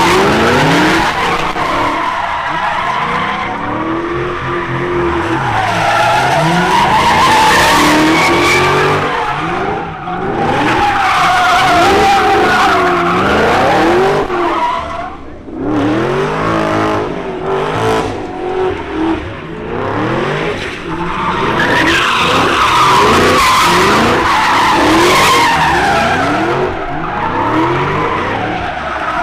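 Car engines revving hard up and down over and over while tyres squeal and screech without a break, as in burnouts or donuts, with a short lull about halfway through.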